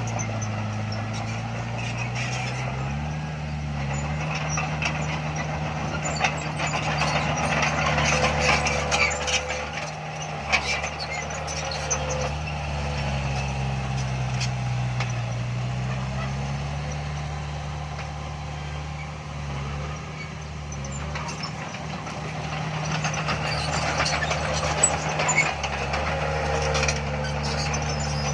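Heavy diesel earthmoving machinery running under load, its engine pitch slowly dropping and rising again as it works. Metallic clanking and rattling comes through, heaviest about a third of the way in and again near the end.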